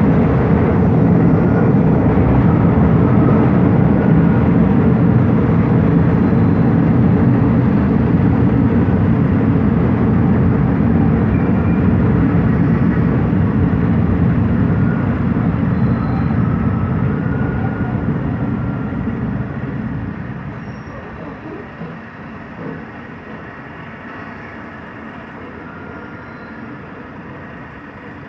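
Diesel-hauled passenger train running into a station: a loud, steady rumble of wheels on rail and rolling carriages that dies away over about four seconds past the middle as the train slows and draws past, leaving a much quieter background with a few light knocks.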